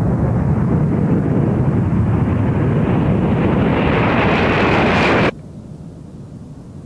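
Jet aircraft engines running, a loud roar that grows brighter and louder as it builds, then cuts off abruptly about five seconds in, leaving a much quieter low rumble.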